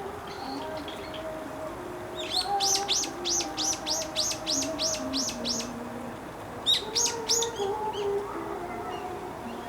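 A songbird singing a quick run of about a dozen repeated high, arching notes, then a shorter burst of a few more about a second later. Faint steady lower tones run underneath.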